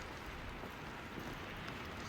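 Steady rain ambience: an even hiss with a low rumble underneath and a few faint ticks.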